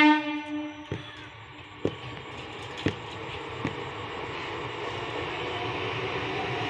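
An ICF 3-phase MEMU electric train's horn cuts off at the start. The train then draws nearer, its running noise growing steadily louder, with a few sharp clacks about a second apart.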